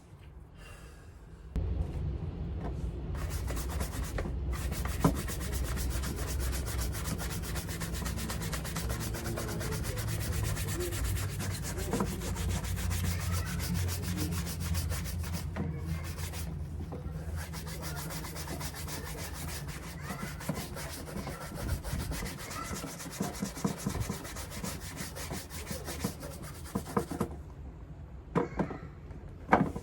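Rapid, steady rubbing strokes on the leather of a Paraboot Michael shoe during cleaning and polishing. The strokes start about a second and a half in and give way to a few scattered knocks near the end.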